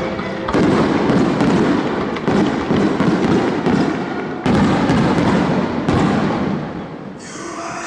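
Aerial fireworks shells bursting: four loud booms about one and a half to two seconds apart, each trailing off into a dense rumble. Held notes of the show's music end just after the first.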